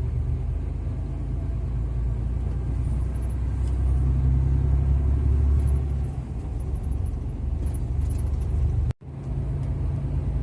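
Steady low drone of a truck's engine and tyre noise heard from inside the cab while driving on the road. The sound cuts out for an instant about nine seconds in.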